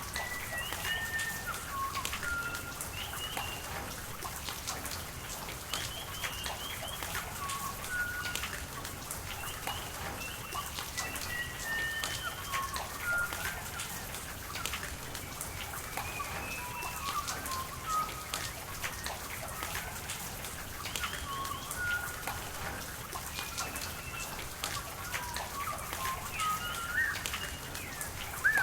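Birds chirping and whistling again and again over steady rain, with many small raindrop ticks and a constant hiss of falling water.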